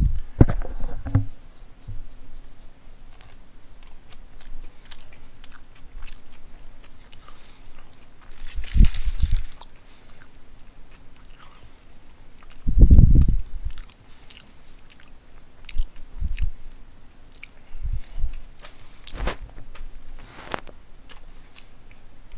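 Close-up chewing and biting of a footlong sub sandwich, with many small wet mouth clicks and smacks and a few heavier dull thuds.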